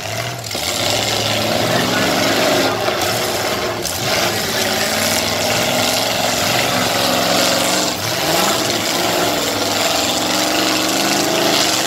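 Several car and truck engines running hard together, their pitch rising and falling as they rev, over a steady wash of engine noise.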